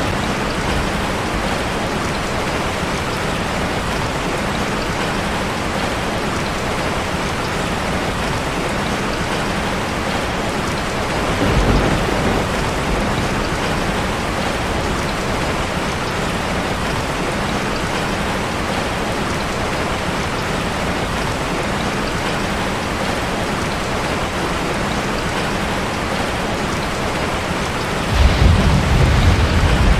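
Steady rain drumming on a metal roof. A low rumble swells briefly about a third of the way in, and another starts near the end.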